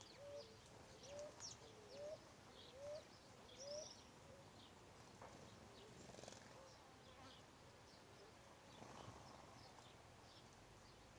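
Birds calling: a low, rising call note repeated about six times in the first four seconds, with scattered high chirps from small birds throughout.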